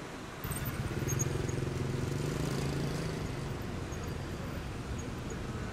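Toyota GR Yaris's turbocharged three-cylinder engine running at low revs as the car creeps along, a steady hum that starts about half a second in and fades after about three seconds, over city street noise.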